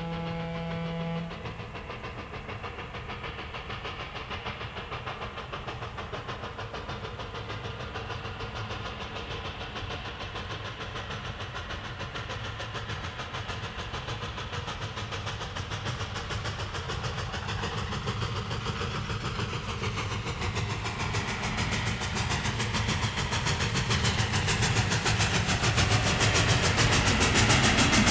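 Dubbed-in railway sound effect: a held whistle note for about the first second, then the rhythmic running sound of a train that grows steadily louder toward the end.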